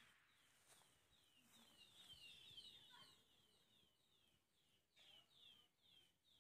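Near silence with faint birdsong: short falling chirps, several a second, coming and going.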